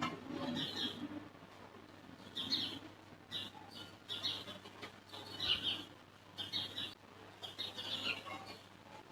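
Small birds chirping in short high calls, about once a second, over a faint steady low hum.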